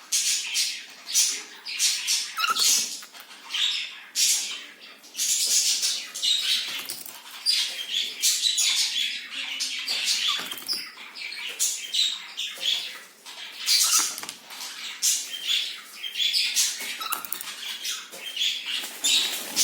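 A cockatiel scrabbling and pecking about, making quick crackly rustling and scratching sounds in irregular bursts.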